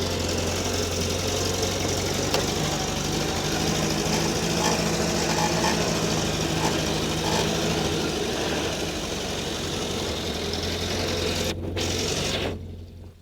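GAZ-69A's four-cylinder side-valve engine running steadily with an even low drone; the sound drops away abruptly near the end.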